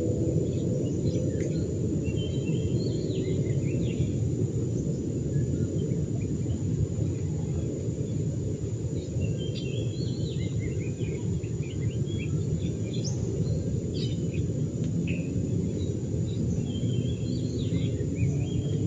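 Birds chirping and calling now and then over a steady low rumble of outdoor background noise.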